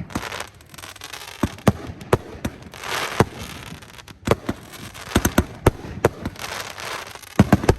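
Fireworks going off: a run of sharp bangs at uneven intervals, with hissy stretches between. Near the end several bangs come in quick succession.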